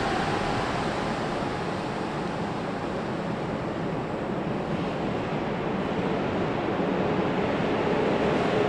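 Nippori-Toneri Liner 320-series rubber-tyred automated guideway train running on its concrete guideway: a steady rushing of the tyres, with a whine that fades about half a second in and a lower whine that grows over the last few seconds as a train draws near.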